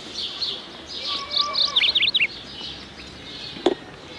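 Small birds squabbling: two quick clusters of sharp, high chirps, followed by a single short knock near the end.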